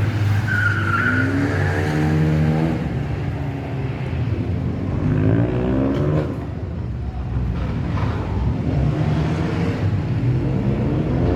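Rally car engine revving hard and climbing in pitch three times as the car drifts, with a short tyre squeal about half a second in.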